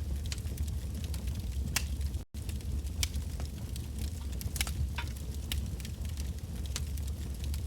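Wood bonfire burning with a steady low rumble and irregular sharp crackles and pops from the burning logs. A momentary dropout to near silence a little over two seconds in.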